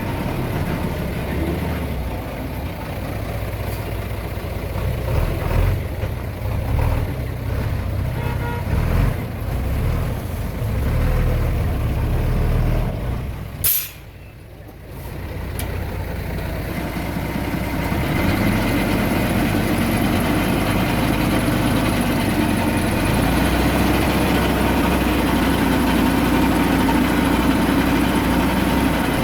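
Heavy diesel earthmoving machinery running, the engine note rising and falling under varying load. About halfway there is a brief sharp hiss or click, the sound drops low for a couple of seconds, then the engine runs steadily and louder.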